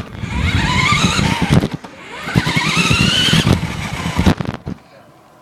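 RC car's motor whining up in pitch twice as the car accelerates, over rough rattling and knocks from the car running over the ground, heard from a recorder taped onto the car. The run stops abruptly near the end.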